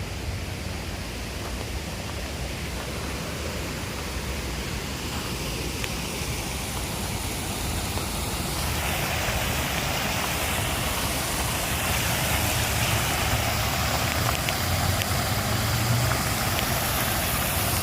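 Rushing water of a waterfall, a steady hiss that grows louder and fuller about halfway through, with a low rumble underneath.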